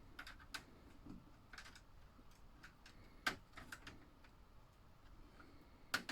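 Plastic slot car track guard railings being snapped onto the track: a scattering of light, irregular plastic clicks, the sharpest about three seconds in and another near the end.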